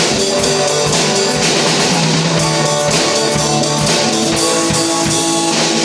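Instrumental passage of a band song with no singing: guitar over a drum kit with steady cymbal hits.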